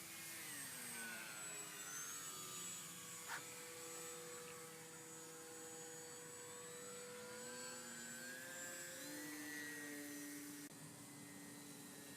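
Electric motors and propellers of two Multiplex FunCub RC airplanes in flight, a faint steady whine whose pitch slowly rises and falls as they fly past and the throttles change. There is a short click about three seconds in.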